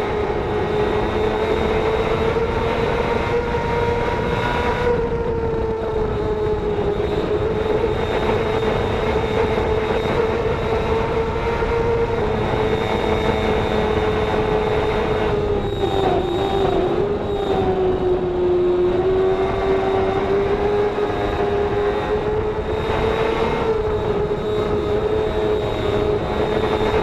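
Racing motorcycle engine held at high revs, a steady high-pitched drone over a rushing noise; the pitch dips and wavers about sixteen to nineteen seconds in, then climbs back.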